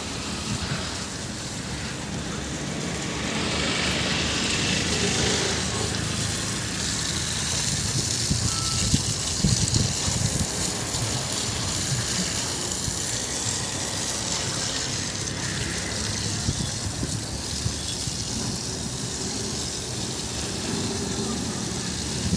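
JCB 3DX backhoe loader at work loading soil: a steady rushing noise with a few sharp knocks about nine to ten seconds in.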